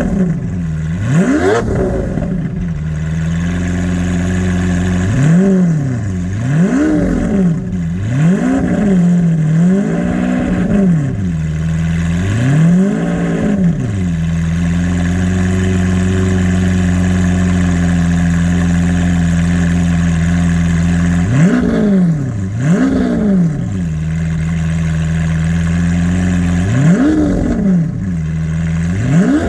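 Lamborghini Aventador S Roadster's naturally aspirated V12 running at idle soon after a cold start, blipped through a series of quick free revs that rise and fall. Near the middle it holds a steady idle for several seconds before a few more revs near the end.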